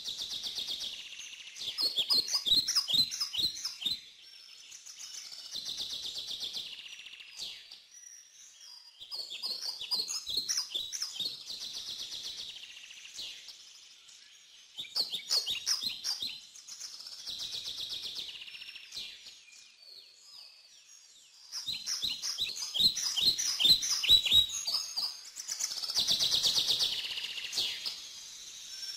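Birds singing: bursts of rapid high-pitched chirps that come back every few seconds.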